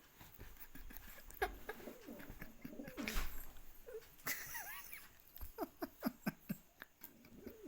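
Pet pigeon cooing in a run of short calls, mixed with rustling and a few sharp taps.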